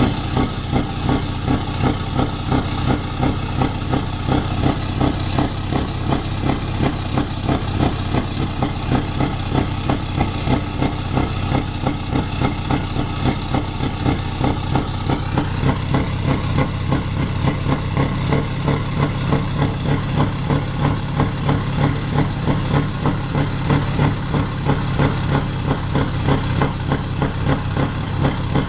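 Scania R560 truck's V8 diesel engine idling steadily.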